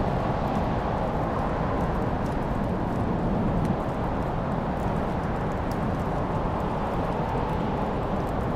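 Log fire burning: a steady low roar with a few small, scattered crackles and pops.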